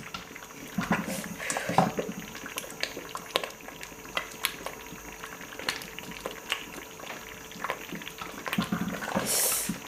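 Thick tomato paste bubbling in a pot, with irregular small pops and blurps as it boils down to drive off excess water. A short hiss comes near the end.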